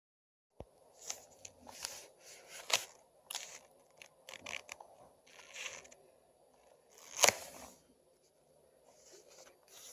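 Slime being kneaded and mixed by hand, making irregular sticky pops and crackles. The loudest pop comes about seven seconds in.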